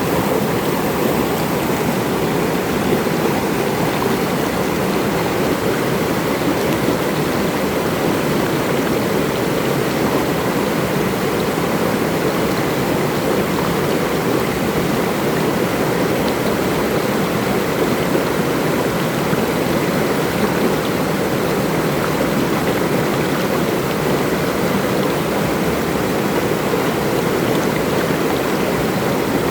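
Flowing water babbling steadily with an even, unbroken rush.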